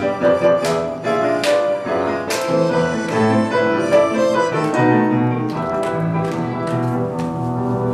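Instrumental introduction to a children's song, led by piano, with note strikes every second or so early on.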